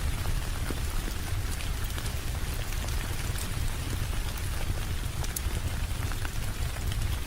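Steady rain falling, an even hiss with scattered ticks of individual drops over a constant low rumble.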